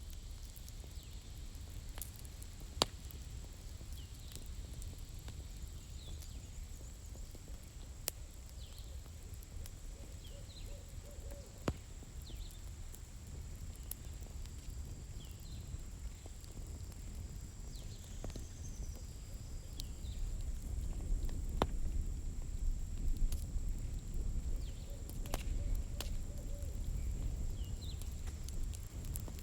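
Campfire firewood burning, with scattered sharp crackles and pops over a low steady rumble of flame that grows somewhat louder about two-thirds of the way through. Faint short high chirps sound in the background.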